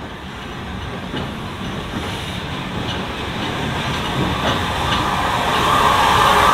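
Steam-hauled train approaching, growing steadily louder as it nears, with a train's running noise and a scattering of short beats.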